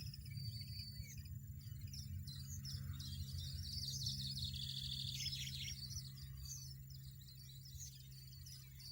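European goldfinches twittering and chirping in quick high notes, with a fast trill about four to five seconds in, over soft background music.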